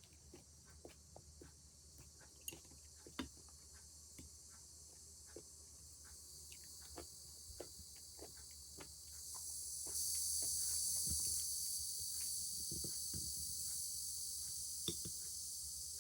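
A cicada chorus, a steady high-pitched drone that swells louder about ten seconds in, over scattered light clicks and taps.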